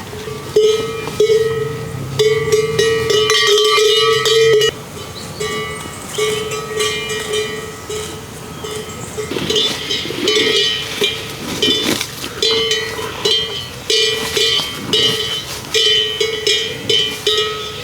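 Metal livestock bells clanking and ringing in irregular clusters of strikes, as animals wearing them move about.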